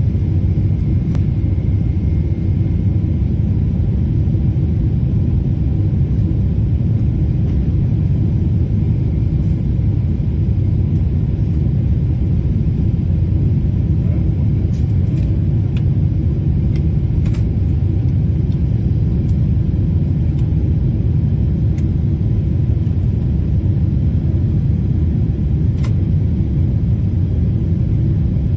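Airliner cabin noise heard from a window seat: a steady, loud low rumble of the engines and airflow, unchanging throughout, during the landing approach.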